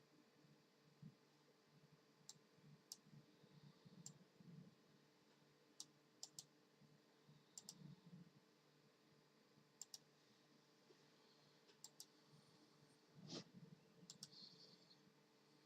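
Faint computer keyboard keys clicking in scattered, irregular taps, often two in quick succession, with one louder knock about thirteen seconds in.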